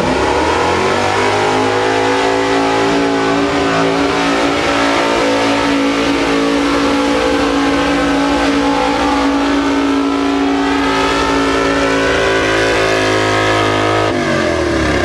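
Pulling truck's engine held at high revs under full throttle while it drags the weight sled. The revs climb at the start, hold steady, and drop off near the end as the throttle is let off.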